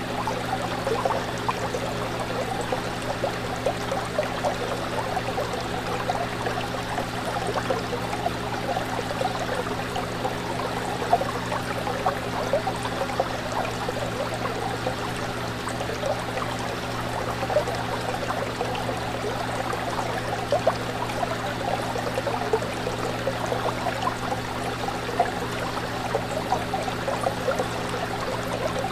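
Aquarium water trickling and bubbling, with many small irregular bubble pops, over a steady low hum from the tank's pump.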